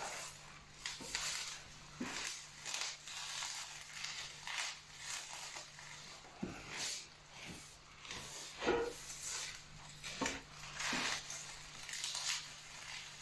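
Dry twigs and dry leaves crackling and rustling as they are snapped, crumpled and handled, in irregular short bursts.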